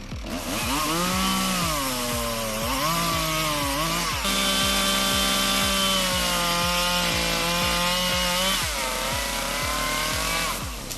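Chainsaw running under load in a cut, its engine pitch sagging and recovering several times as the chain bites into the wood. A steady low thump about twice a second runs underneath.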